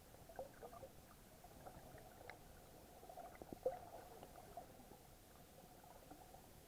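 Faint, muffled underwater sound of water moving against an action camera's waterproof housing, with scattered soft clicks and pops, one a little louder about two-thirds of the way in.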